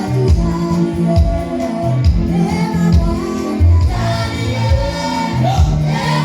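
Gospel worship music: women's voices and a choir singing over a band with a steady, pulsing bass beat.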